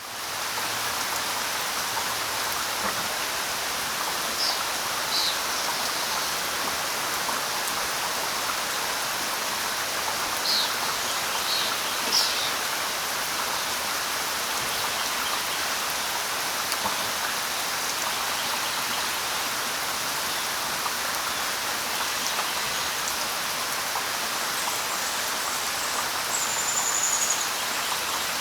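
Steady light rain falling on leaves, an even hiss, with a few short high bird chirps about 4 to 5 seconds and 10 to 12 seconds in, and a brief high whistle near the end.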